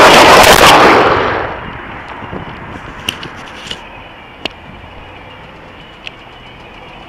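Loud rush of wind and vehicle noise on the microphone that dies away about a second and a half in, followed by a quieter background with a few sharp clicks.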